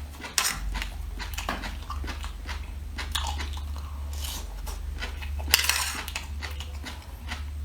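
Close-miked eating of seafood: bites and chewing with repeated crisp clicks and crackles, a louder crunch about five and a half seconds in.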